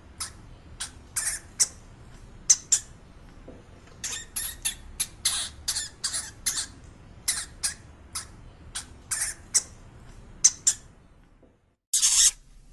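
Dwarf hamster squeaking: a string of short, high squeaks at irregular intervals over a faint low hum. Near the end, after a moment of silence, comes a louder, longer, noisier squeal.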